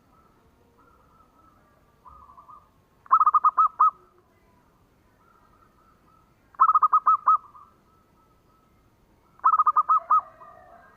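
Zebra dove (perkutut) cooing: three loud phrases of about five quick repeated notes each, a few seconds apart. A softer coo comes just before the first phrase, and fainter calls from other doves sound in between.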